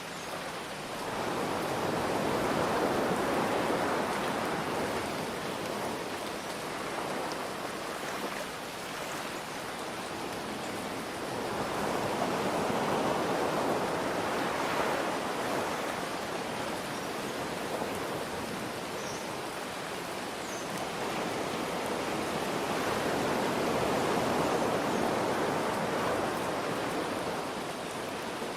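Ocean waves washing in, three slow swells about ten seconds apart, over a steady hiss of rain.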